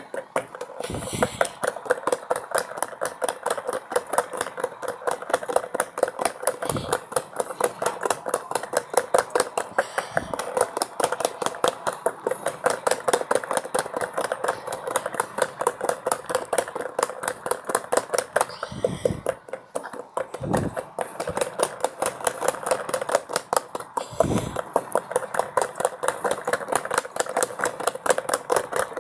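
LG Mini Turbo Drum washing machine running its spin cycle: a fast, even mechanical rattle, with a few low thumps along the way.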